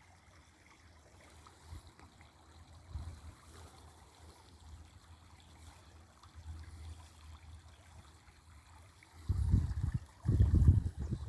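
Creek water trickling faintly. Near the end come loud, low, uneven rumbling bursts on the microphone.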